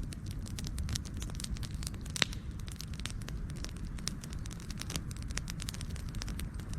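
Wood fire crackling: a constant low rumble of flames with many small sharp pops, one louder pop about two seconds in.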